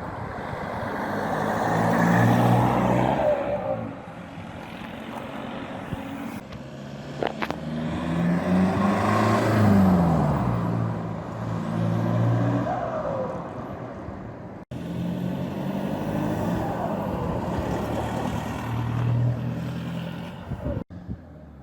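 Toyota Hilux turbo diesel engine with its muffler deleted, revving and pulling in several surges, each rising in pitch and falling away. The exhaust is straight through a plain pipe in place of the muffler.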